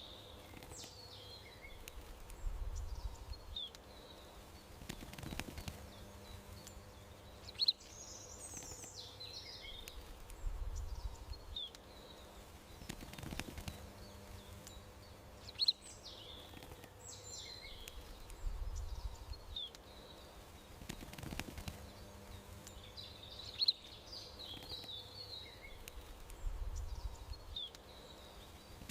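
Small birds chirping and twittering in a looped garden ambience track, the same pattern of chirps, with one sharp chirp, coming round about every eight seconds over a faint steady hum.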